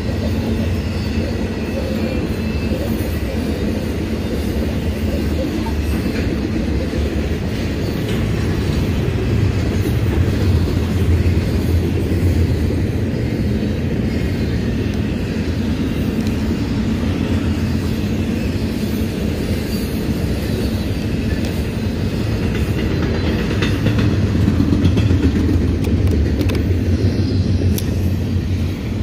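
Fast-moving intermodal freight train's cars rolling past, trailers on flatcars and double-stacked containers on well cars: a steady rumble of steel wheels on the rails that swells slightly twice.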